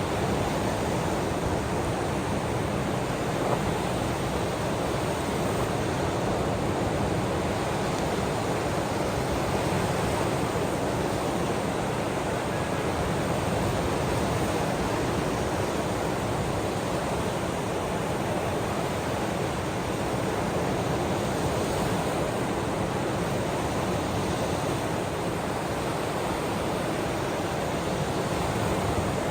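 Steady rushing noise of ocean surf and rain, even in level throughout, with no single wave breaking or drops standing out.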